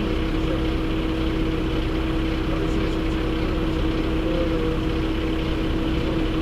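Heavy truck engine running steadily: a constant low rumble with a steady droning hum.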